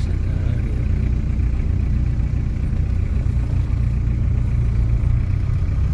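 Vehicle engine running steadily with a low drone and road noise, heard from inside the cab while driving.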